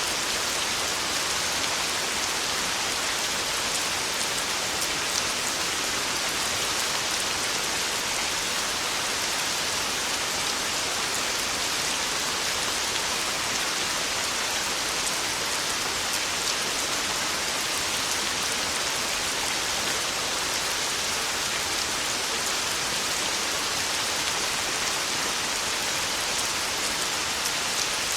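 Heavy, torrential rain drumming on a tin roof: a dense, steady hiss with fine pattering ticks, unchanging throughout and with no thunder.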